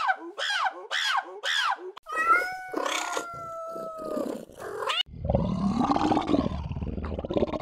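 Animal calls cut together: a run of five short falling cries, then a long held steady cry, then a low rough growl from about halfway.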